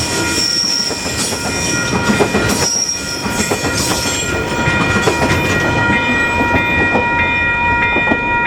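Train passing over a level crossing, its wheels clattering and rumbling on the rails. Over it, the crossing's Western Cullen Hayes electronic bells ring steadily. The high hiss of the train thins out about six seconds in.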